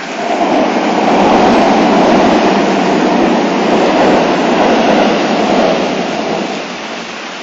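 A vehicle passing in heavy rain, a rushing noise that swells just after the start and fades away over about six seconds, over the steady hiss of a downpour.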